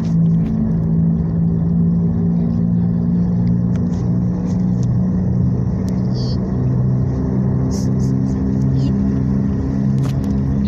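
A steady low engine hum, its pitch stepping up and down slightly now and then, with a few faint clicks.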